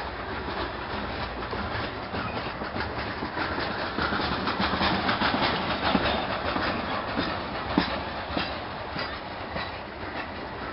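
Freight train cars rolling past on the rails, wheels clacking over the joints in a steady run of clicks and clanks, a little louder midway, with one sharper knock near the end.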